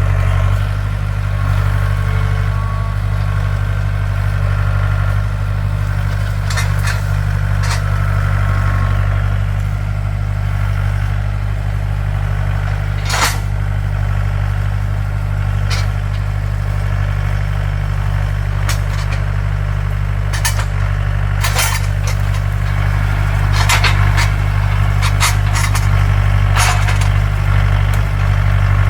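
Mahindra tractor's diesel engine running steadily under load, with scattered sharp knocks now and then.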